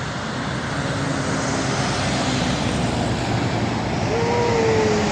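Heavy truck engine running steadily with dense road noise. A short tone that dips slightly in pitch comes in about four seconds in.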